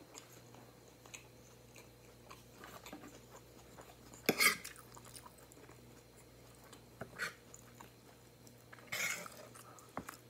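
Quiet close-up chewing of a mouthful of grilled chicken salad, with a few short, louder sounds, the loudest about four seconds in.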